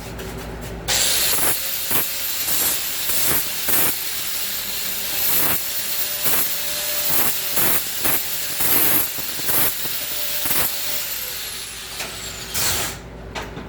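Power grinder deburring the cut edges of steel tubing: it spins up about a second in with a high whine and runs through a string of short grinding passes, then winds down and stops near the end.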